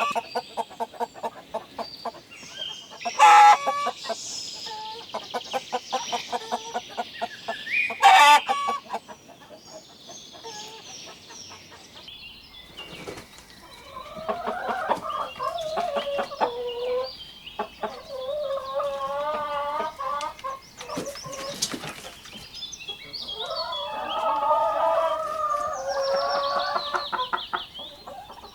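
Chickens clucking in quick rhythmic runs, broken by two loud sharp calls. In the second half a rooster crows three times, each crow a long wavering call of a few seconds.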